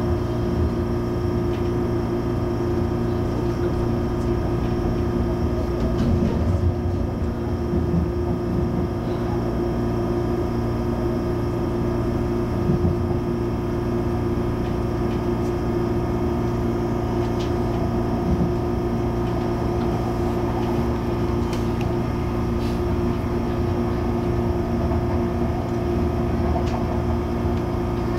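Steady hum inside the carriage of an MTR Airport Express CAF train: its electrical equipment and ventilation running at constant pitch, with a few faint ticks.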